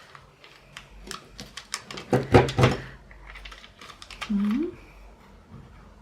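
Doily-pattern paper edge punch being pressed through paper: a run of sharp clicks and crunches, loudest a little past two seconds in. A short rising hum from a voice a little past four seconds.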